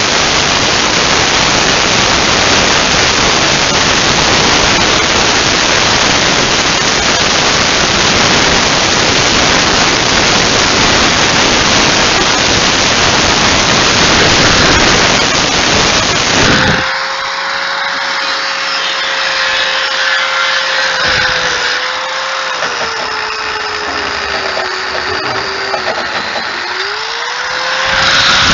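Power grinder grinding away old rubber windshield seal from a race car's window frame: a loud, steady grinding hiss. About two-thirds of the way through the hiss drops away to the motor's whine, which sags in pitch a few times as it is loaded. Near the end the full grinding noise returns.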